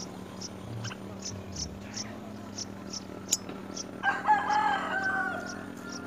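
A bird's long wavering call, about a second and a half, starting about four seconds in, over faint high chirps repeating two or three times a second.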